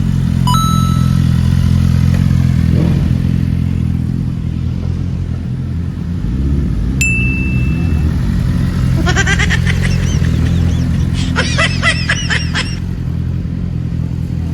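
Motorcycle engine idling steadily close by, with no revving. Two short beeps sound about half a second and seven seconds in, and brief higher-pitched wavering sounds come twice near the end.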